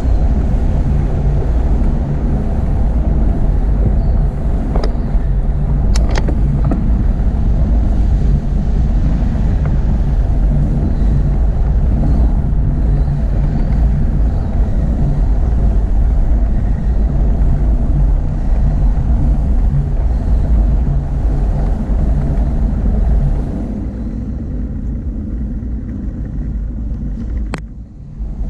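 Steady low rumble of wind and road noise while riding a bicycle, with sharp clicks about six seconds in and again near the end. It eases off about 24 seconds in.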